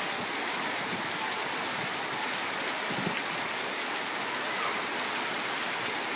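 Heavy rain pouring down steadily, a dense even hiss of rain on surfaces, with running water from the downpour.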